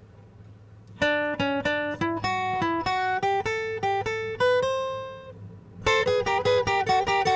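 Instrumental music: an acoustic guitar picking a melody note by note. The melody starts about a second in and pauses on a long fading note. Denser picking starts again near the end.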